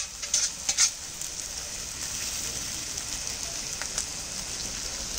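Vegetables and masala sizzling steadily in oil in a hot wok, with boiled rice just added on top and not yet mixed in. A few short, sharp knocks come in the first second.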